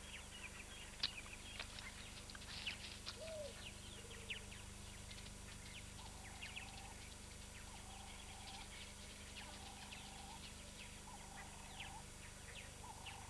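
Natural bush ambience of several birds calling: scattered short, high chirps throughout, with a lower, even call repeated about every second and a half from around six seconds in.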